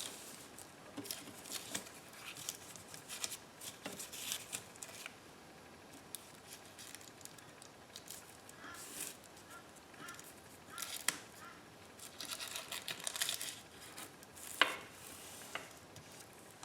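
Painted tissue paper being handled, with soft rustling and crinkling in short spells and light taps and clicks on the desk.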